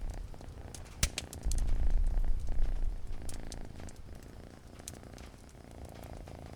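A cat purring in a low rumble that swells and fades, strongest from about one and a half to three seconds in, with scattered crackles of a wood fire and one sharp crack about a second in.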